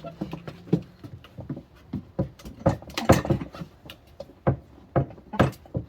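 Irregular knocks and clunks of a tire being worked onto a steel rim on a manual tire changer, with rubber and metal bumping as the bead is pushed on by hand.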